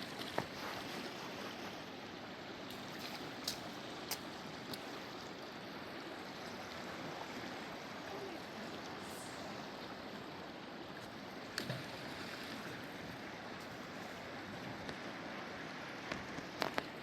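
Steady rush of flowing river water, with a few short sharp clicks or knocks scattered over it.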